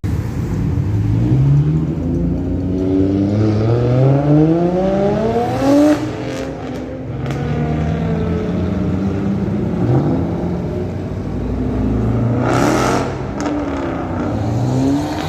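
A high-performance sports car engine accelerating hard, its pitch climbing again and again in the first six seconds as it runs up through the gears, then holding steadier before another short rise. A brief loud burst of noise comes about twelve and a half seconds in.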